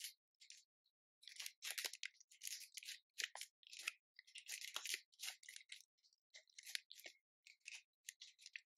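Snack packaging crinkling and rustling in irregular short bursts as it is handled.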